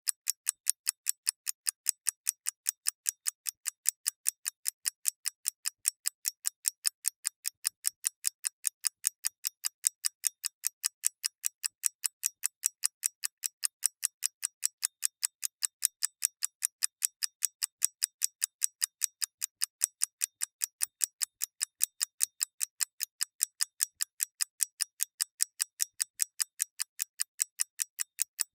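Mechanical clockwork ticking: a steady, even train of crisp, high-pitched ticks, a few a second, with no low end.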